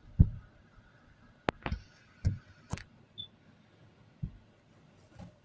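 A handful of separate short knocks and clicks, about six spread unevenly over five seconds, with quiet between them.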